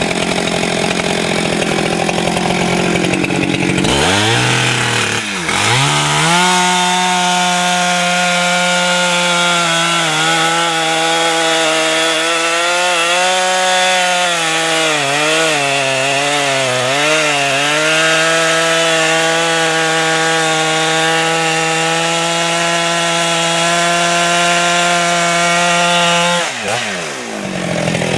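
Chainsaw revving up to high speed about four to six seconds in and running hard. Its pitch dips and recovers several times in the middle, then it drops back near the end.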